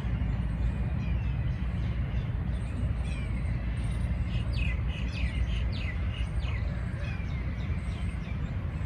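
Small birds chirping over a steady low rumble, with a quick run of short, sharp chirps in the middle.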